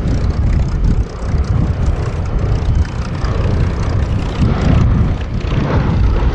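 Boeing B-17G Flying Fortress's four Wright R-1820 Cyclone radial piston engines running in flight, a deep rumble that swells slightly about four to five seconds in.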